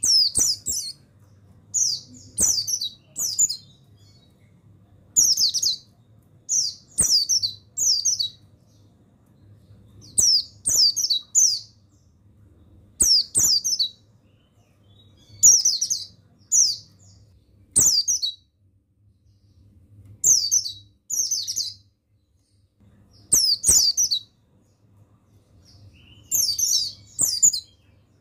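Pleci buxtoni white-eye chirping in short quick bursts of high, sliding notes, two to four at a time, repeating every two to three seconds.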